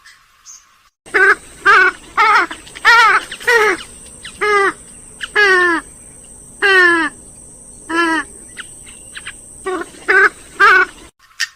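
Grey-headed swamphen calling: a run of about a dozen loud, downward-bending call notes, roughly one a second, that starts about a second in and cuts off suddenly near the end.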